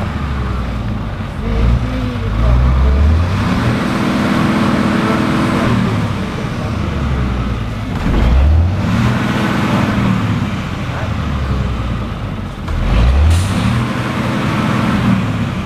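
Motor vehicle engine pulling away, its pitch rising and then holding steady three times over, as it speeds up through the gears, with steady road noise underneath.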